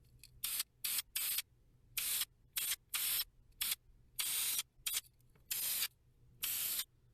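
Aerosol can of Krylon spray paint hissing in about ten short bursts of varying length, with brief pauses between them: light passes that keep the paint from overspraying or running.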